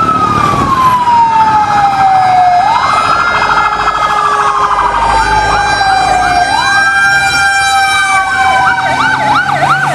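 Toy fire truck's electronic siren sounding: a wail that rises quickly and falls slowly, repeating about every four seconds, with a faster yelping siren joining in near the end.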